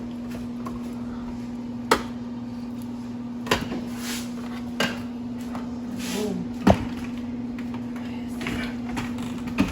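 Groceries and cabinet doors knocking and clattering as a pantry is restocked: five sharp knocks spread out unevenly, the loudest about two-thirds through, with brief rustles of packaging between. A steady low hum runs underneath.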